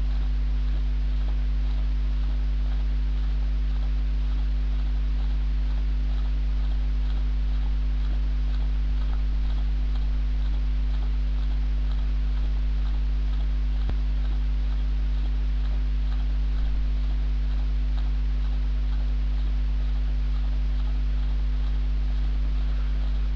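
Steady electrical mains hum: a low 50 Hz drone with higher overtones, unchanging throughout, with one faint click about two-thirds of the way through.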